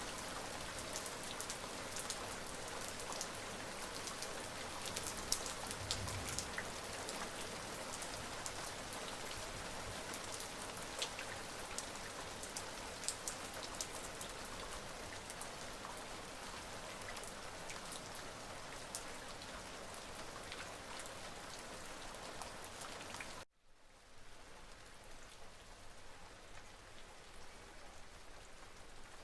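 Steady rain falling on a surface, with many sharp individual drop hits over the even hiss. About 23 seconds in, it cuts out abruptly for a moment and comes back quieter and smoother.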